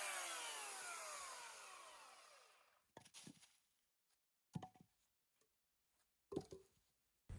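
Power saw's motor winding down after a cut, its whine falling in pitch and fading out over about two and a half seconds, then three short separate knocks.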